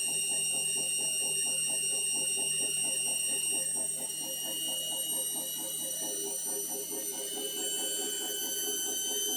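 Indesit My Time washing machine running, its motor giving a high steady whine over a quick rhythmic swish of the turning drum, about five or six a second. The whine shifts pitch about four seconds in and again near the end, as the drum speed changes.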